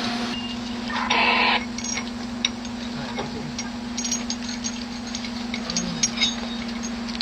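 Scattered light metallic clicks and clinks of bolts and hand tools over a steady machine hum, with a short hiss about a second in.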